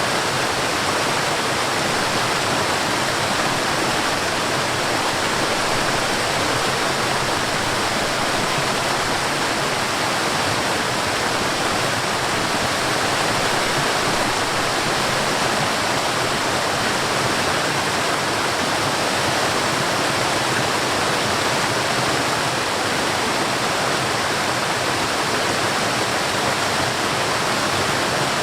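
Forest waterfall: water falling and rushing in a steady, unbroken hiss.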